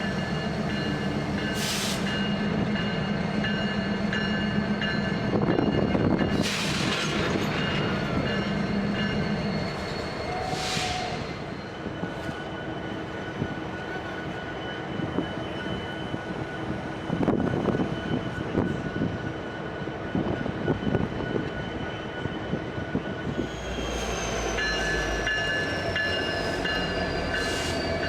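Diesel freight locomotives running, a steady low engine hum with three short blasts of air hiss in the first half, then a busier rumble as the train works. Near the end a high squeal slowly falls in pitch.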